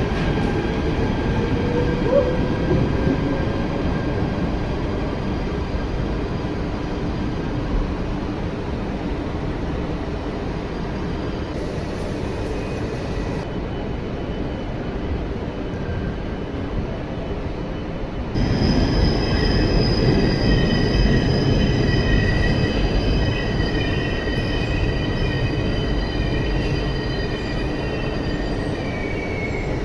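Dutch NS double-deck electric intercity trains running in a covered station hall: a steady rumble with a slowly rising motor whine in the first seconds. About 18 seconds in the rumble grows louder and several high-pitched squealing tones from the moving train set in, one rising near the end.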